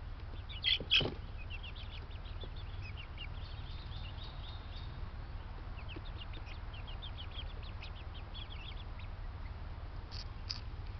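Many small birds chirping in quick, short notes throughout, with two loud calls about a second in and a few more near the end, over a steady low hum.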